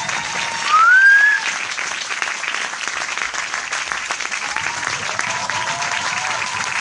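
Large audience applauding with dense, steady clapping. About a second in, a loud rising whistle cuts through, and long held calls from the crowd come in near the end.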